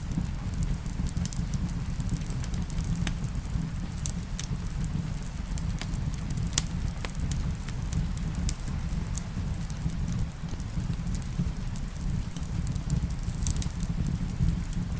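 Wood fire crackling in a fireplace, with scattered sharp pops over a steady low rumble, mixed with rain.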